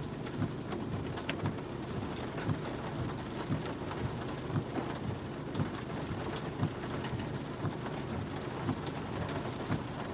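Heavy monsoon rain falling, with many irregular sharp taps of drops over a steady low rumble.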